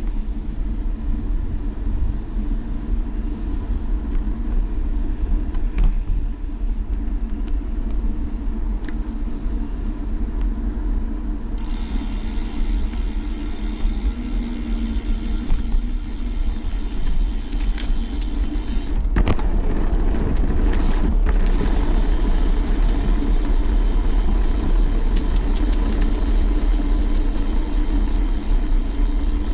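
Steady low rumble of a bicycle ride picked up by a handlebar-mounted GoPro: tyres on the ground, wind on the microphone and handlebar vibration, with scattered sharp clicks and rattles. The rumble grows a little louder about two-thirds of the way through.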